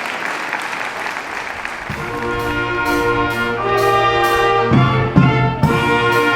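Applause fades out, and about two seconds in a brass ensemble starts playing held chords over a sustained low note. A few sharp percussive hits come in the middle.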